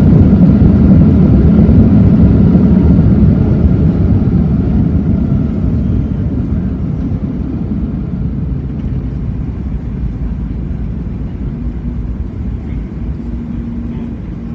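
Loud rumble of a Boeing 737 MAX 8-200 heard inside the cabin, from its engines and the airframe. It dies away gradually, and a faint steady hum comes through near the end.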